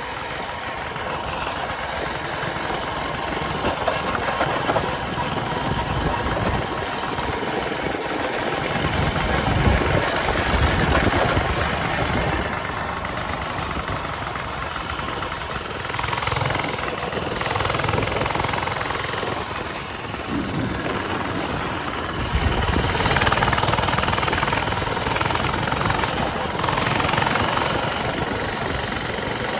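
Coleman mini bike's small engine running while riding, a rough, rattling drone that swells and eases several times as the rider works the throttle.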